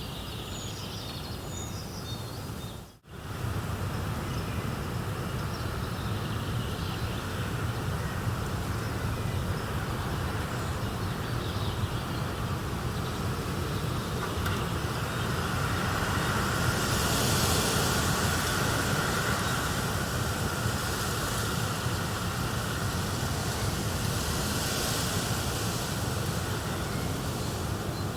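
Steady rushing noise of a fire-and-nature ambience soundscape, with a few short bird chirps in the first second. It drops out for a moment about three seconds in, then resumes slightly louder.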